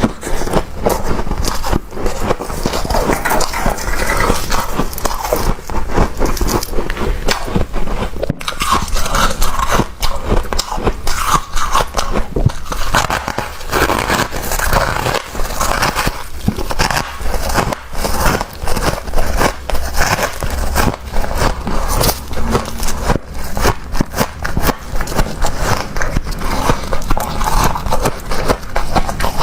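Thick freezer frost being scraped and crunched: a continuous dense run of crackling, crunching scrapes.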